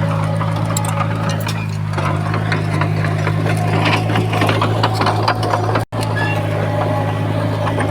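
Komatsu bulldozer's diesel engine running steadily, with a rattle of short metallic clanks and squeaks over it. The sound cuts out for an instant about six seconds in.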